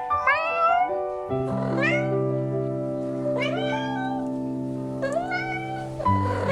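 A cat meowing four times, each call short and rising in pitch, over background music with sustained notes.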